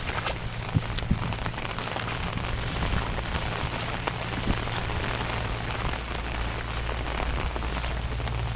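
Steady rain falling, an even hiss with scattered sharp drop ticks, over a low steady rumble.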